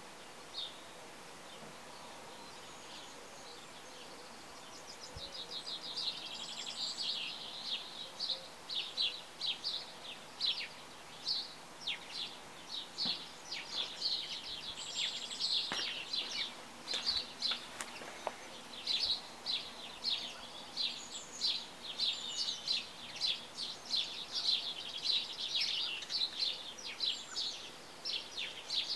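Small birds chirping and twittering in quick, high, repeated chirps, starting about five seconds in and carrying on in dense runs over a faint steady hiss.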